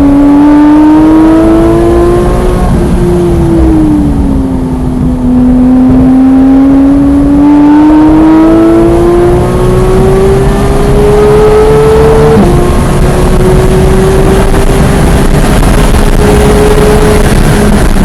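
Porsche 991.1 GT3's flat-six engine pulling hard: its note rises, falls away about three seconds in as the throttle comes off, then climbs steadily for several seconds. About twelve seconds in the pitch drops suddenly with an upshift and climbs again, over steady road and wind noise.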